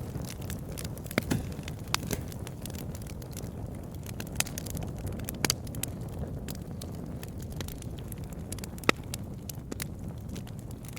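Campfire burning: a steady low rumble of flames with scattered sharp crackles and pops, and one louder pop about nine seconds in.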